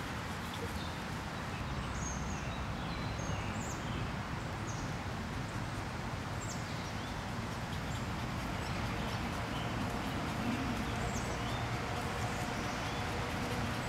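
Outdoor ambience: a steady hiss of background noise with scattered short, high bird chirps throughout.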